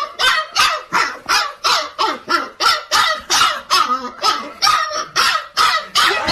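A dog barking over and over in an even rhythm, about three barks a second.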